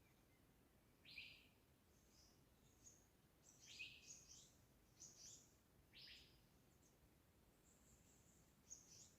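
Faint songbird calls and chirps: a series of short, high-pitched notes, some sweeping downward, coming every half second to a second from about a second in, busiest in the middle and with one more near the end.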